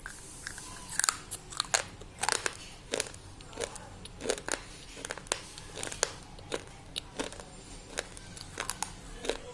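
A person biting and chewing thick white slate pencils: an irregular run of sharp, crisp crunches, several a second.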